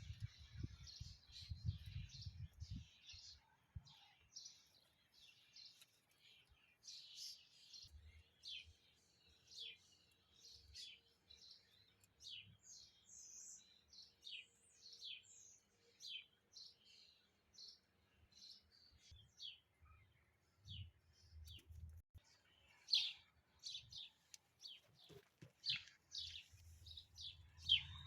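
Small birds chirping, a steady stream of short, high chirps, some sweeping downward, with a faint low rumble now and then.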